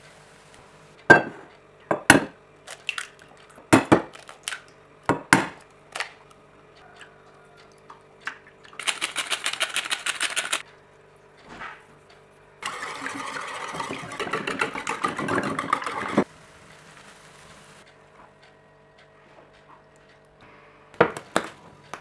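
Kitchen utensils and dishes: a handful of sharp knocks and clinks, then a couple of seconds of fast rhythmic clatter, and a longer spell of rough steady clattering that stops abruptly. A few more knocks come near the end.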